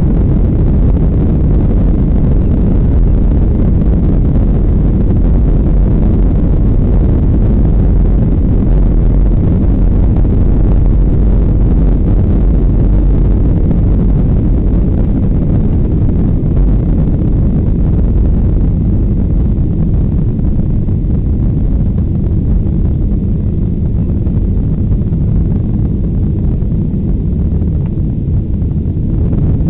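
Boeing 737-800's CFM56-7B jet engines at takeoff power, heard inside the cabin as a loud, steady, deep rumble mixed with airflow noise. The rumble eases slightly in the last third.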